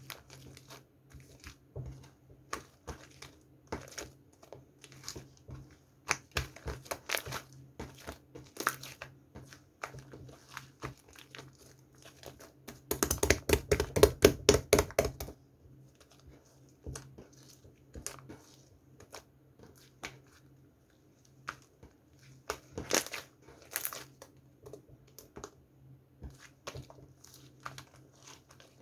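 Hands playing with slime: a scatter of sticky clicks and crackles, with a rapid burst of about eight pops a second around the middle that is the loudest part.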